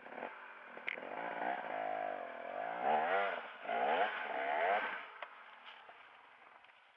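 Off-road dirt bike engine revving up and down as it climbs a trail, then fading away about five seconds in.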